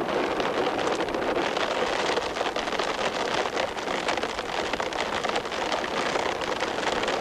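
Steady rain, a dense patter of fine drops over a rushing hiss.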